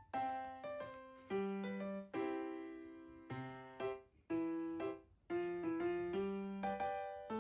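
Background music: a gentle piano melody with struck chords that fade, one after another.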